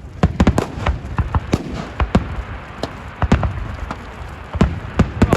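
Fireworks going off: a dense, irregular run of sharp bangs and cracks, several every second.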